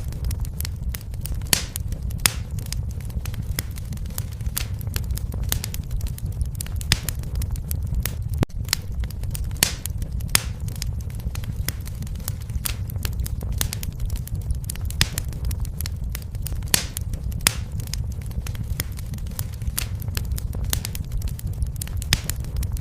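Fireplace fire crackling, with frequent sharp pops at irregular intervals over a steady low rumble.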